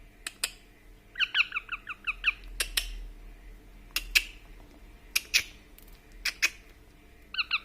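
A baby parrot giving a quick run of about ten high chirps a little over a second in, and starting another such run near the end. Between the runs come sharp single clicks of its beak cracking raw rice grains.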